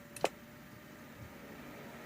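A single sharp click about a quarter second in, then faint steady hiss.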